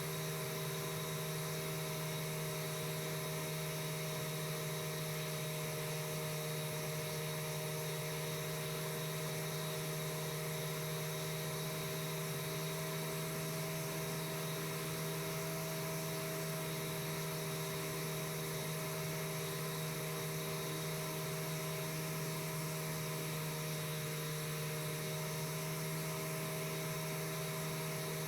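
Piper Super Cub floatplane's engine and propeller droning steadily in cruise, heard from inside the cabin as an unchanging hum with a hiss over it.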